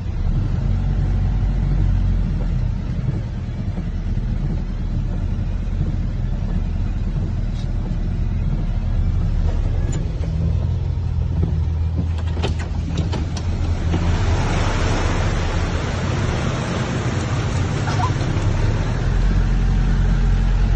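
A motor vehicle's engine running steadily with a low rumble. About fourteen seconds in, a broad rushing hiss of floodwater joins it.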